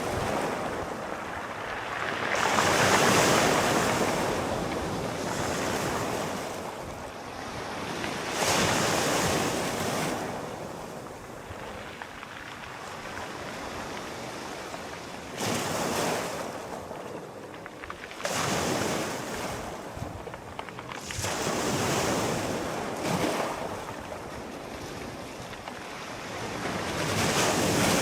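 Sea waves breaking and washing on a shore, swelling and ebbing every few seconds, with a light wind in the background.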